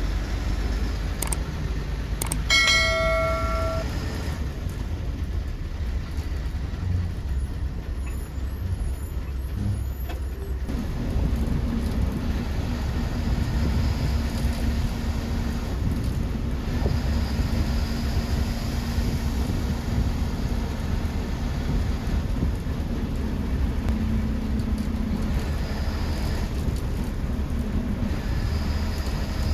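Bus engine and road noise heard from inside a KSRTC bus, a steady low rumble. About three seconds in, a horn sounds once for about a second.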